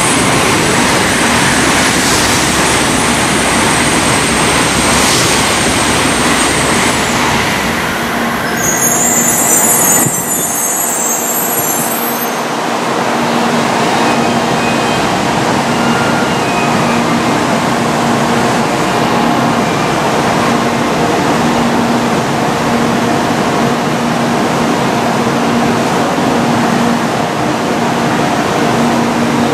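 Shinkansen bullet train running alongside the platform: a loud rushing noise of wheels and air for about the first ten seconds, which then eases into a steadier rumble with a constant low hum.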